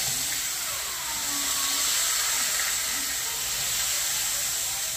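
Pork chops frying in oil in a skillet, sizzling steadily.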